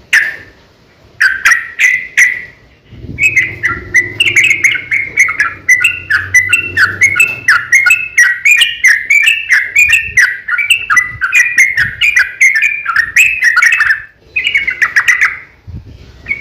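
Yellow-vented bulbul singing: a few short chirpy phrases, then a long fast run of rapid chirps lasting about ten seconds, and one more short phrase near the end.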